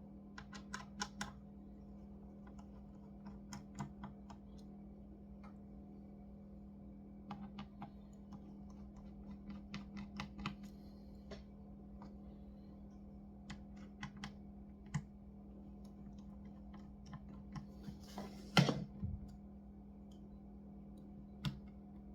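Light clicks and taps of small tools and laptop parts being handled, coming in short clusters, with one louder knock about eighteen and a half seconds in, over a steady low hum.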